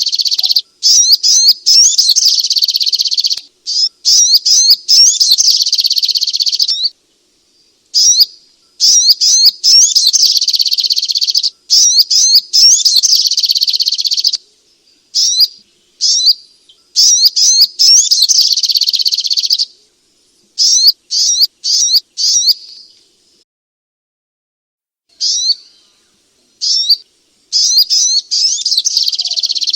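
Spiderhunter (sogok ontong) song: long runs of rapid, high-pitched chirping notes, each lasting several seconds, broken by short, completely silent gaps.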